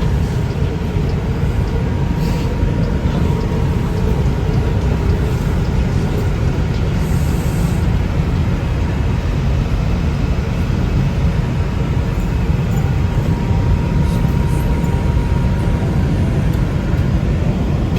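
Steady low rumble inside a New York City subway car on the 5 line, with a faint steady tone in the middle.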